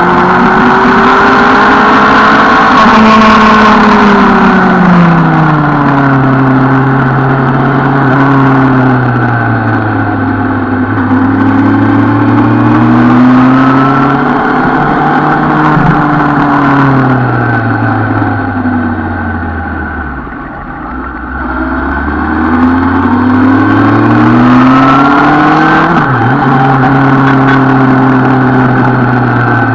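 Suzuki Bandit 650 motorcycle's inline-four engine under way, its revs climbing and falling again and again with throttle and gear changes. About 20 s in it slows to low revs, then pulls away and revs up again.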